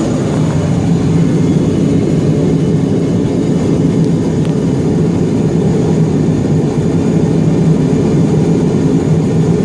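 Port engine of a Grumman Mallard twin-engine amphibian running steadily after its start, a loud even drone with a strong low hum.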